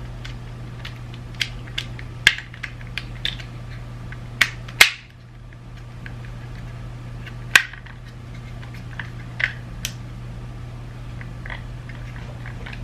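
Irregular sharp clicks and taps of small parts being handled and fitted together during reassembly of a BMW iDrive controller, bunched in the first few seconds with the loudest just under five seconds in, over a steady low hum.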